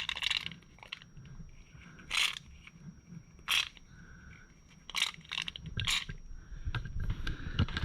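A handful of sharp clicks and knocks, about five, spaced a second or more apart, from hands working around metal garage door hardware.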